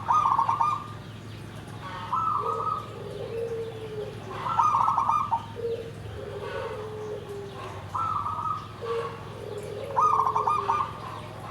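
Zebra dove (perkutut) cooing in repeated phrases about every two seconds: each opens with a louder rolling, trilled note and trails off into lower, softer falling coos.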